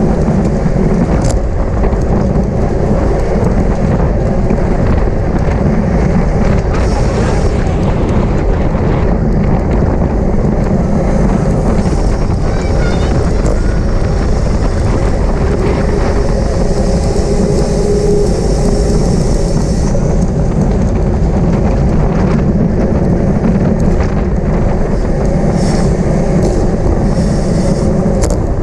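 Steady, loud rumble of wind buffeting the microphone of a camera on a moving bicycle.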